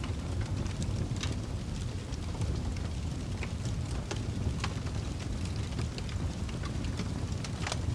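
Wood fire crackling: a steady low rumble of flames with frequent small pops and snaps at irregular intervals, one sharper snap near the end.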